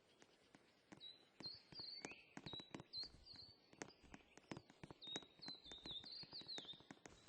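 Faint, quick chirping of a small bird, short high notes repeated many times from about a second in, some slurring downward. Irregular soft clicks are scattered throughout.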